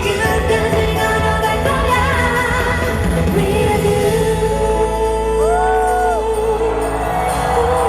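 Live pop concert music filling a large hall: a singer's voice carrying long held notes over the band's accompaniment.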